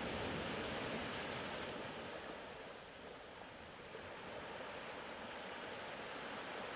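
Soft ocean-surf background: an even wash of waves that eases off around three seconds in and swells back.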